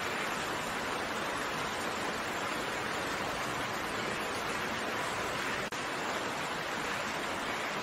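Steady rain as an even hiss, with a momentary dropout about three-quarters of the way through.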